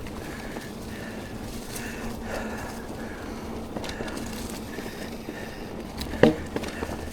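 Mountain bike rolling over a dirt trail: steady tyre noise with the bike rattling over small bumps, and one sharp clack about six seconds in.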